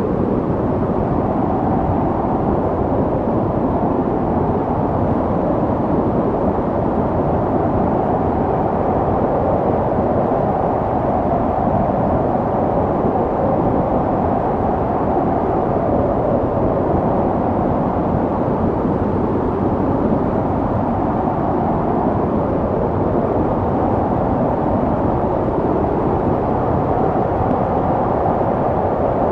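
Snowstorm wind blowing steadily: a low rushing noise with a faint howl that slowly rises and falls.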